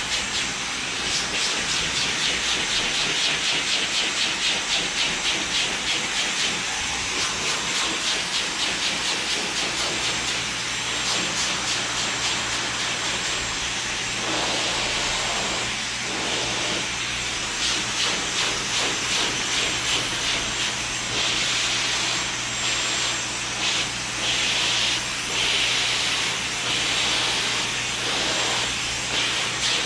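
Handheld hair dryer blowing a steady rush of air, its loudness pulsing quickly at times, with a low hum coming in about a third of the way through.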